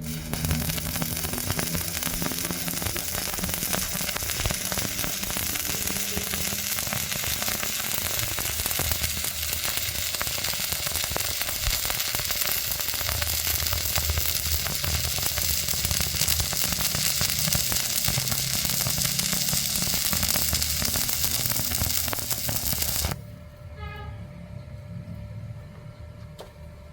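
Stick-welding arc on steel plate, crackling and sizzling steadily as the electrode burns. It cuts off abruptly about four seconds before the end, when the arc is broken.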